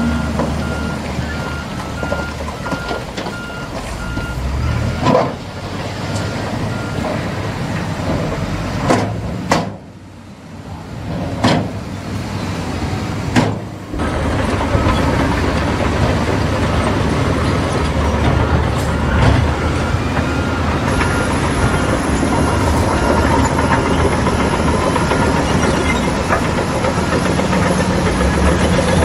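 Heavy construction machinery engines running, with a reversing alarm beeping at an even pace through the first several seconds and faintly again later. Several sharp knocks come between about five and fourteen seconds in, and the machine noise drops for a few seconds around ten seconds in.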